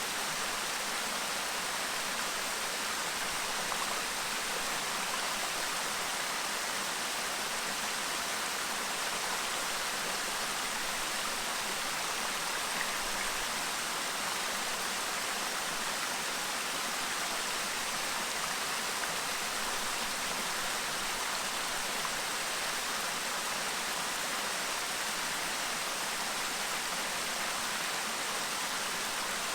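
Clear mountain stream babbling over rocks: a steady, even rush of running water.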